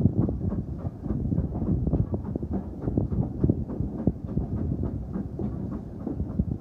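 Train carriages running along the track: a steady low rumble with frequent, irregular knocks and clatter from the wheels on the rails.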